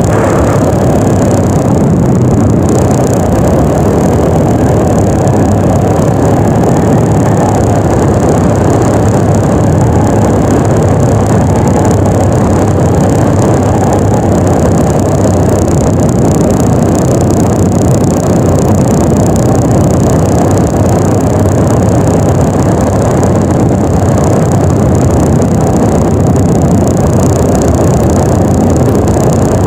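Yamaha NMAX 155 scooter's single-cylinder engine running steadily while riding, under a loud, even rush of noise that doesn't let up.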